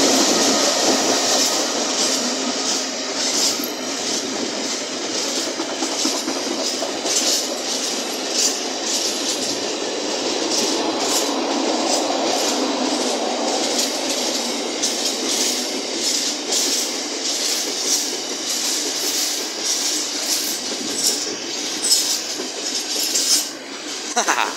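GBRF Class 66 diesel freight locomotive passing at the start, followed by a long intermodal container train's wagons rolling by: a steady rumble with repeated clicks as the wheels run over rail joints.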